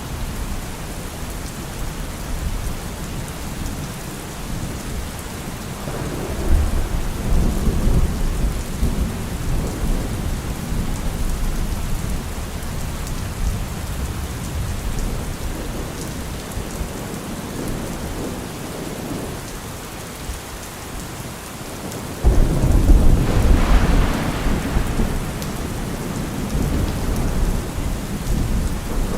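Heavy rain falling steadily on a car roof. A roll of thunder builds about six seconds in and dies away, and a sudden, louder thunderclap about twenty-two seconds in rumbles off over a few seconds.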